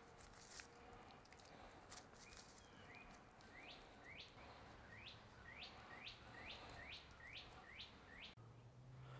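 A small bird chirping faintly in the background: a run of short, quick upward-sweeping chirps that begins a few seconds in and comes faster and faster, about two to three a second near the end.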